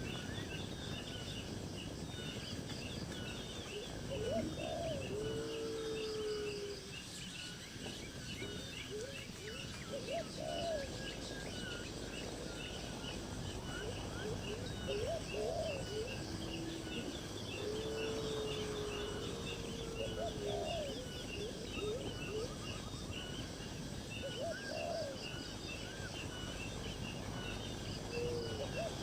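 Birds calling: a low call, a short rising note followed by a longer level one, repeats every four to five seconds over a constant chorus of high, rapid chirping.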